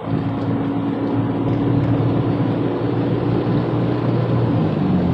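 Car engine and road noise heard from inside the cabin while driving: a steady low drone whose pitch shifts about four and a half seconds in.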